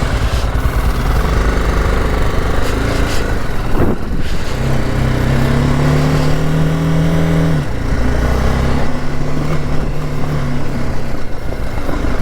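BMW G 310 GS single-cylinder motorcycle engine pulling under acceleration: its note rises steadily through a gear for about three seconds, drops sharply at an upshift, then pulls again.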